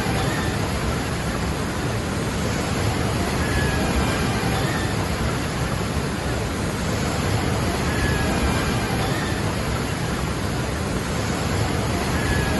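Waterfall rushing: a steady, dense roar of falling water that holds at one level throughout.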